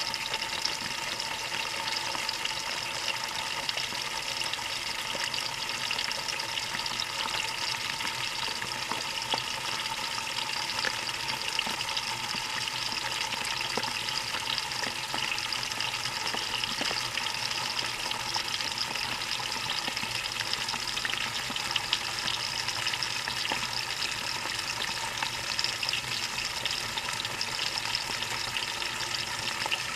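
Water rushing and spraying in a Maytag washing machine's tub, heard from a camera fixed to the inside of the tub wall. It is a steady hiss with faint scattered ticks, which fits the fill stage early in the cycle.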